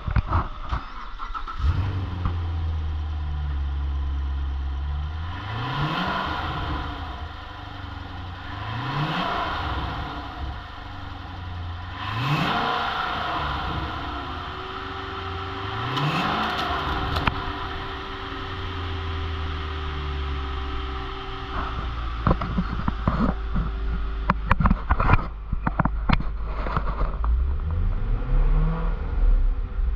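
2017 Chevrolet Corvette 6.2L V8 engine catching and settling to a steady idle, then revved briefly four times a few seconds apart, each rev rising and falling back to idle. In the last third there are scattered clicks and knocks over the idle, and another rev near the end.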